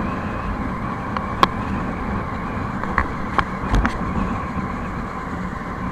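Motorcycle running at highway speed, with steady wind and road noise heard through a waterproof camera case, and a few sharp clicks and knocks.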